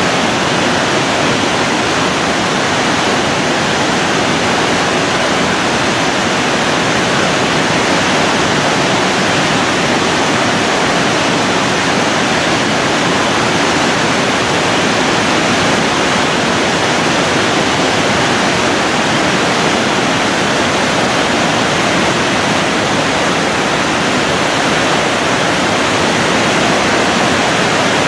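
Thi Lo Su waterfall: a large cascade's steady, loud rush of falling water, unbroken throughout.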